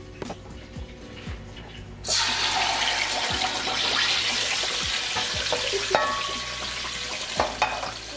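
Boiled tomato paste poured into a hot pot on the stove, starting to sizzle loudly about two seconds in and sizzling on steadily, with a few scrapes of the pot. Soft background music before the sizzle starts.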